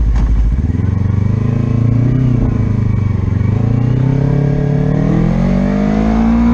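Racing motorcycle engine accelerating hard, its pitch climbing steadily through the revs, with a brief dip about two seconds in.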